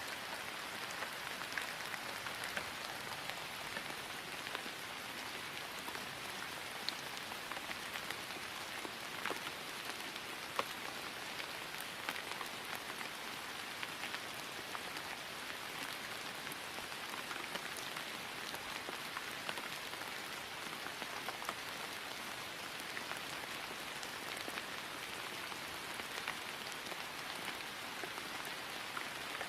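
Steady rain falling on grass: an even patter with many small scattered drop ticks.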